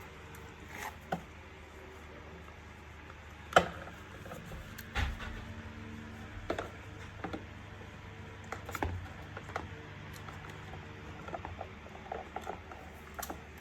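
Irregular clicks and knocks of plastic vacuum cleaner parts being handled and fitted together, over a steady low hum. The sharpest click comes about three and a half seconds in, with a duller knock a second or so later.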